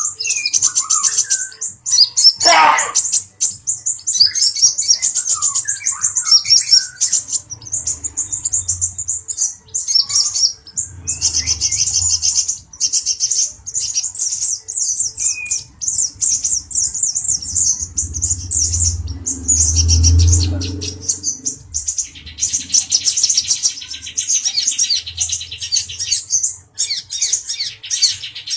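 Male sunbird singing a fast, high-pitched twittering song, run almost continuously with short breaks.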